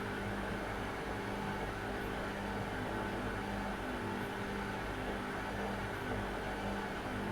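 Washing machine running with a steady hum, with a few faint ticks.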